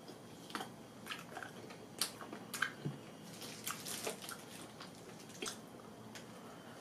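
Close-up wet mouth sounds of eating cooked black tiger shrimp: chewing and sucking the shrimp, heard as an irregular string of soft clicks and smacks.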